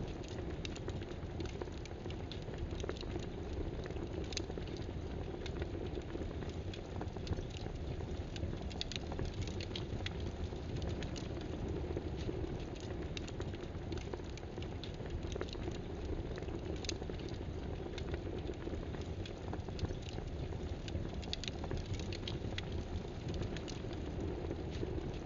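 A steady hiss with many light, irregular clicks and ticks scattered through it.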